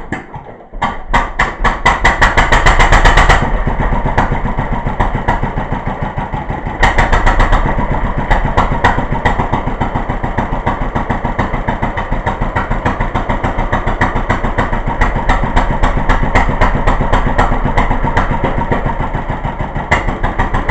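1936 International Harvester LA single-cylinder stationary engine starting and running with a rapid, even beat of firing strokes. It comes up to its loudest in the first few seconds, settles, surges briefly about seven seconds in, then runs steadily.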